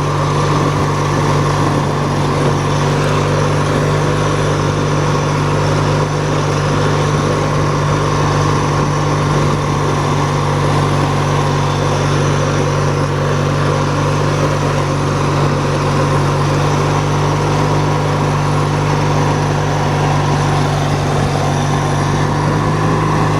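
Hechinger (MTD-built) riding lawn tractor's engine running at a steady, unchanging speed while the tractor is driven, held below full throttle by a faulty throttle cable.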